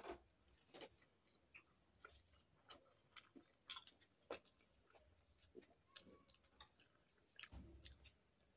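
Faint, irregular wet clicks and smacks of a person chewing steamed momo dumplings, with a sharper sound right at the start as a momo goes into the mouth.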